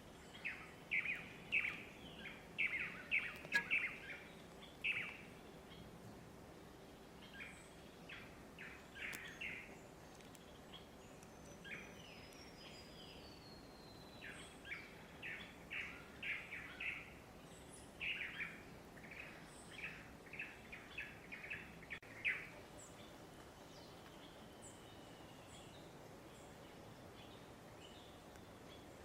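Wild birds singing: bouts of rapid, short, sharp notes repeated for a few seconds at a time, with a thin falling whistle from another bird in between. The song stops for the last several seconds, leaving only a quiet steady background.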